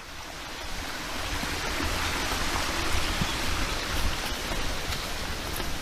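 Steady rush of a small stream's running water, fading in over the first second, with a low rumble underneath.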